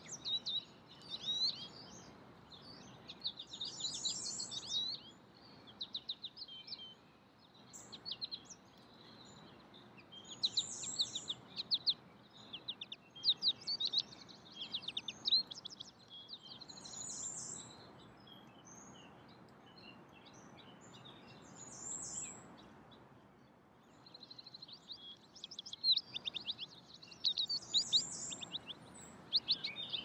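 Small birds singing in bursts of quick, repeated chirps every few seconds, with short higher notes among them, over a steady background hiss.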